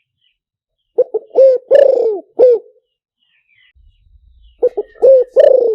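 Spotted dove song from a recording made to be played as a decoy call: two phrases of short coos around one longer coo that falls in pitch, the second phrase starting about three and a half seconds after the first. Faint high chirps of small birds come between the phrases.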